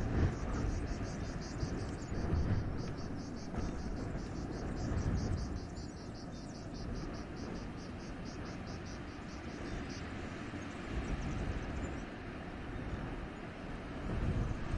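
Wind blowing through a forest in gusts, with a deep rumble. Over it, a high, rapid pulsing call of about four pulses a second runs until about ten seconds in, then stops.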